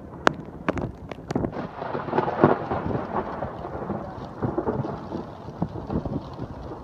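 Rain falling in a thunderstorm, with thunder rumbling and swelling loudest about two seconds in. Sharp taps of drops close by in the first second and a half.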